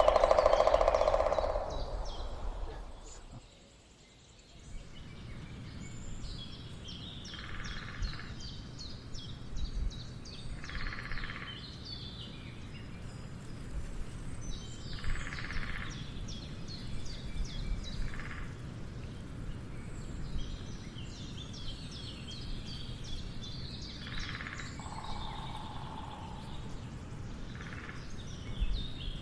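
A woodpecker drumming in short rolls of about a second each, about six times, over a background of many small birds chirping. A loud, lower sound at the very start fades away within about three seconds.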